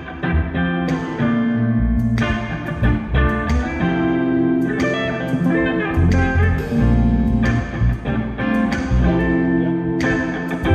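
Live band playing a slow R&B groove without vocals: repeated guitar chords, with bass notes coming in about two seconds in.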